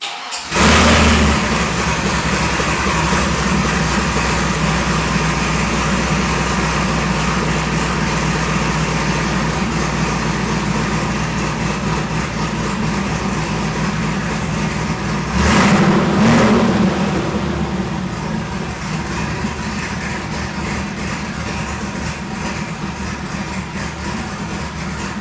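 The truck's 5.3-litre LS V8 starts up with a quick flare of revs and settles into a fast idle. It is revved briefly about fifteen seconds in, then goes back to idling, gradually getting a little quieter.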